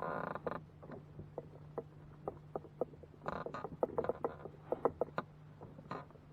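Scattered small clicks and knocks of gear being handled in a kayak, with a short buzzing rattle right at the start, over a steady low hum.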